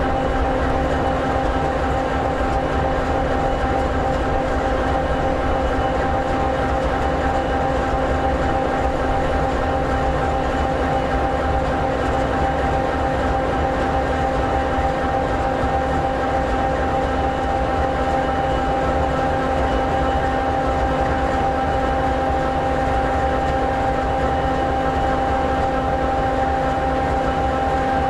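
EMD 16-710G3B sixteen-cylinder two-stroke diesel engine of an SD60E locomotive idling steadily, with a steady whine over the low engine note.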